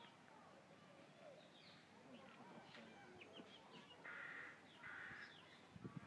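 Faint chirping of small birds, with two short raspy calls about four and five seconds in, and a brief low thump just before the end.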